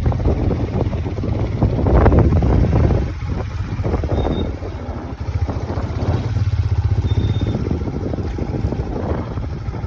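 A vehicle running, with wind buffeting the microphone in gusts over a steady low rumble.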